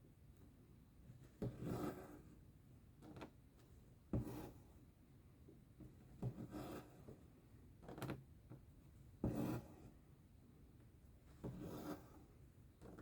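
Cross-stitch needle and embroidery thread being drawn through the fabric: a soft rasping swish about every two seconds, six strokes in all, some starting with a light click.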